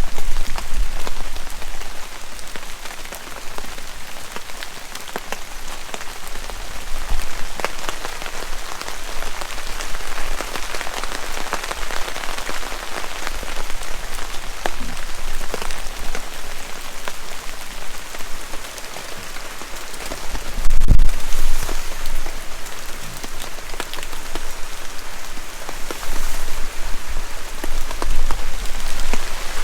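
Steady rain falling, with many separate drops striking close by. A single low thump stands out about two-thirds of the way through.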